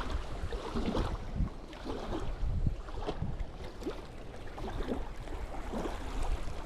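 Strong wind blowing across the microphone in uneven gusts, a low rumble that rises and falls.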